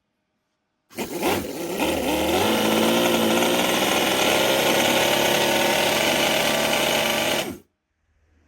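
Cison scale-model V8 engine running, its pitch rising over the first couple of seconds and then holding steady. The sound starts and stops abruptly.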